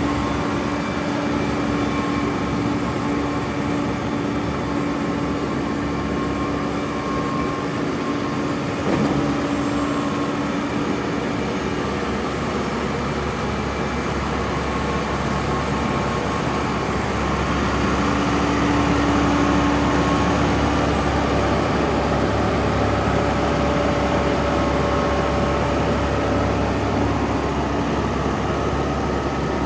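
Case IH Vestrum 130 tractor's diesel engine running steadily with a constant hum, growing slightly louder for a few seconds a little past the middle.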